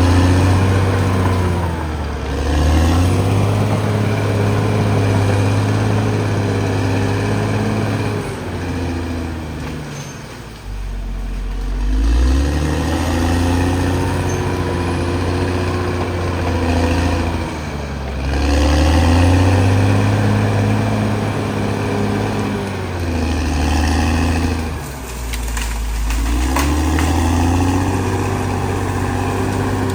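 CAT D6R XL bulldozer's diesel engine running hard, its note dropping and climbing back several times a few seconds apart.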